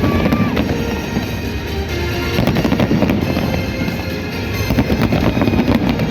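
An aerial fireworks display: many shells crackling and bursting in quick succession, over music playing.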